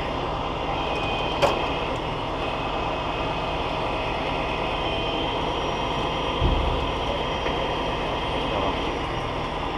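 Heavy-duty tow truck's diesel engine running steadily during the recovery pull, with a sharp knock about a second and a half in and a low thump around six and a half seconds.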